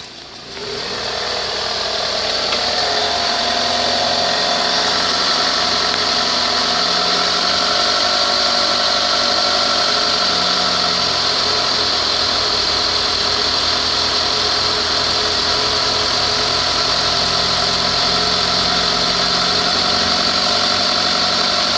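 2011 Mitsubishi Galant's 2.4-litre four-cylinder engine running steadily at idle, with a steady high whine over the engine note. It grows louder over the first few seconds, then holds even.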